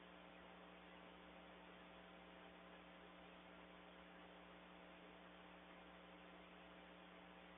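Near silence: a faint, steady electrical hum with hiss, no bird calls.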